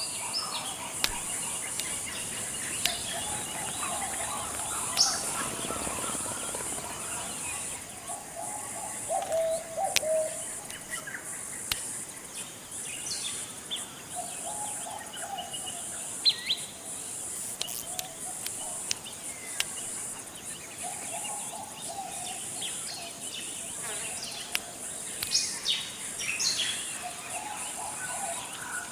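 Forest ambience: birds chirping and calling in short scattered notes, over a steady high-pitched insect drone, with a lower warbling call repeating every few seconds.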